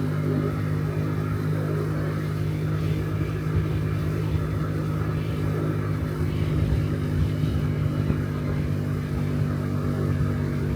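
Honda Dio Cesta AF68 50cc scooter engine running at a steady cruising speed, its single-cylinder four-stroke hum held at one pitch while riding.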